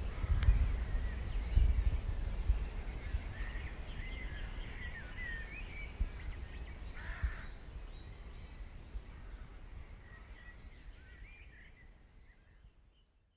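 Birds calling outdoors, one call harsh and caw-like about seven seconds in, over wind buffeting the microphone. The wind is strongest in the first few seconds, and everything fades away towards the end.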